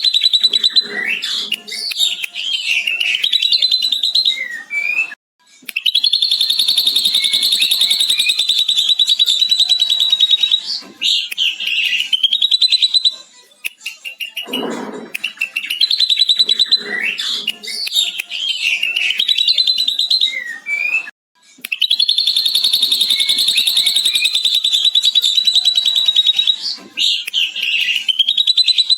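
Ashy drongo singing, mimicking a lovebird's long chattering trill: a high, very fast, even rattle held for about seven seconds, framed by shorter varied whistled notes. The same phrase sequence comes round twice, repeating about every sixteen seconds.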